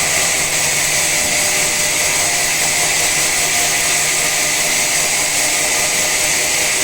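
Sawmill saw cutting through a teak log: a steady, loud, high-pitched hiss that holds even throughout.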